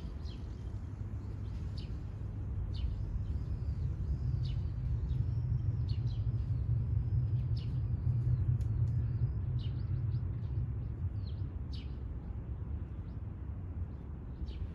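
Small birds chirping, with a run of short repeated arched notes through the middle, over a low steady outdoor rumble that swells and fades again.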